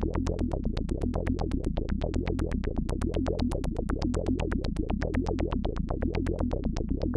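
Analog synthesizer (AnalogFX SER-2020) playing a rhythmic pattern: sharp, clicky pulses about six or seven a second over a sustained low tone.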